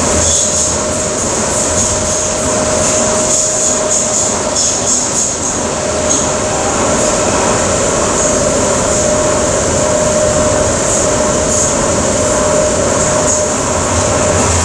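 Docklands Light Railway train running at speed, heard from inside the carriage: a steady rumble of wheels on rail with a constant mid-pitched whine and a high steady hiss over it.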